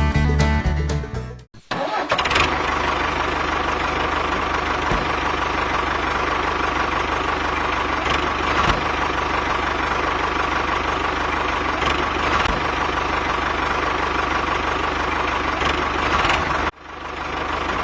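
A small motor running steadily for about fifteen seconds, an even noisy hum with a faint whine, then cutting off suddenly.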